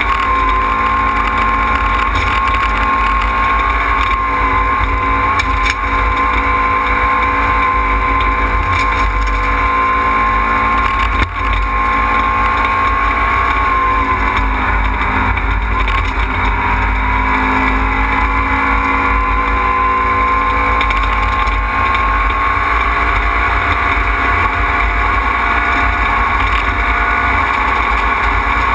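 Fiat Panda rally car's engine heard from inside the cabin, held high in the revs, easing off a little past halfway and then climbing back up. A single short knock a little before halfway.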